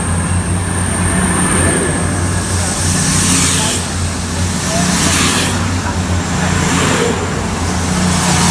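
Class 222 Meridian diesel multiple unit pulling out of the station, its underfloor diesel engines running under load with a steady low drone. A rushing noise swells and fades about every two seconds as the cars pass.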